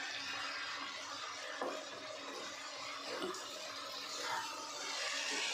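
Okra frying in oil in a nonstick kadai, sizzling with a steady hiss as a spatula turns it, with a few faint scrapes.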